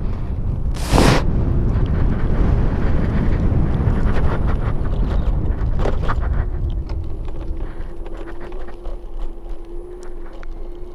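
Motorcycle riding noise with wind buffeting the microphone, and one short, loud gust about a second in. After about six seconds the wind eases and a steady hum is left.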